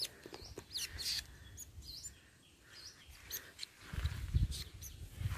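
Small birds chirping: many short, high, sliding chirps in quick succession. About four seconds in, a low rumbling thump.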